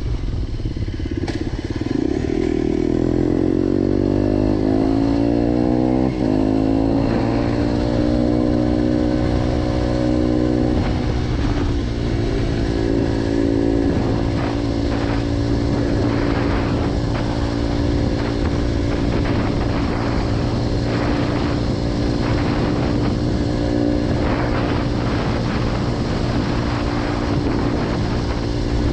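Motorcycle engine breathing through a G.P.R aftermarket exhaust, its pitch climbing over the first several seconds as it accelerates, then holding at steady revs.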